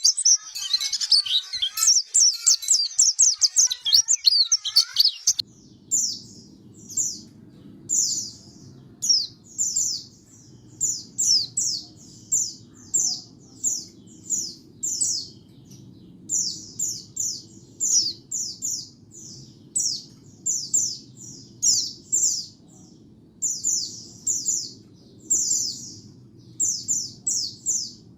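White-eye (pleci) singing: a dense, fast warbling chatter for about the first five seconds, then, after an abrupt cut, short high notes repeated in quick runs of two to five over a steady low hum.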